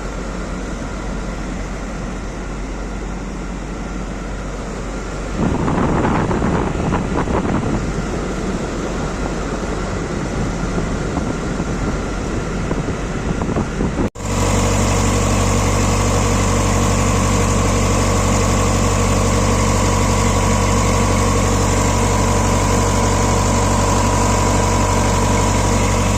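Tata bus engine idling steadily. It cuts off abruptly about halfway through and comes back louder and very even, with a steady whine over the engine note.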